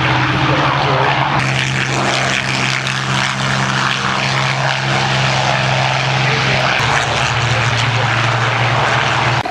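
Piston-engined propeller aircraft flying past, a steady loud engine drone with a strong low hum.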